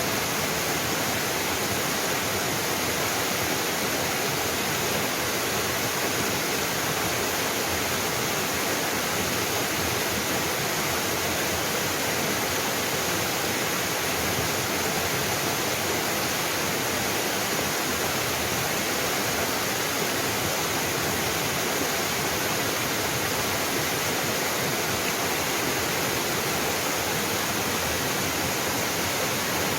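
A small mountain waterfall pouring steadily onto rocks: a constant, even rush of water that does not change.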